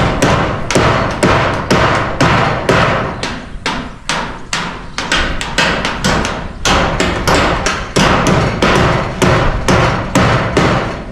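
A hammer driving roofing nails into corrugated iron roofing sheets, struck in a steady, rapid rhythm of about two blows a second.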